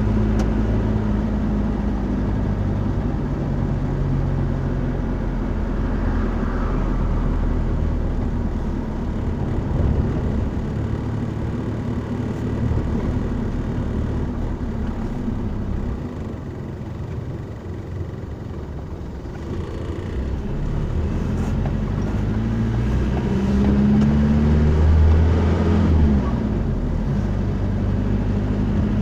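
A car driving, with steady engine and road noise; the engine note changes pitch and grows louder about three quarters of the way through.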